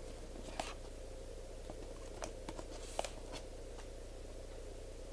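Faint, scattered taps and light rustles of a cardboard display box being handled, over a steady low hum.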